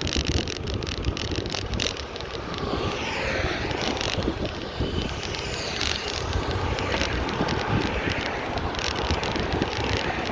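Riding a bicycle: wind buffeting the microphone over a steady road rumble, with frequent small rattles and clicks. A rushing hiss sweeps through from about three to five seconds in.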